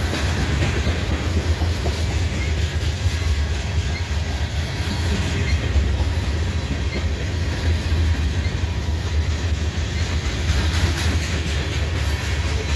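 Freight train cars rolling past close by: a steady, continuous noise of steel wheels running on the rails.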